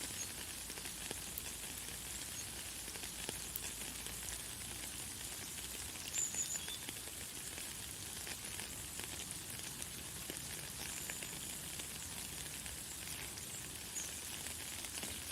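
Light, fine rain falling: a steady high hiss dotted with many small drop ticks. A few brief high bird chirps sound over it, the clearest about six seconds in.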